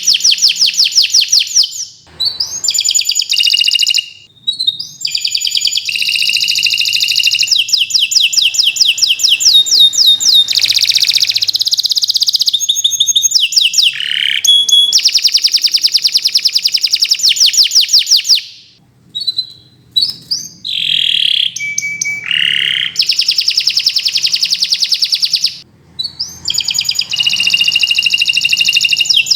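Domestic canary singing long, continuous song: fast trills of rapidly repeated notes, broken by a few gliding whistled notes and short pauses.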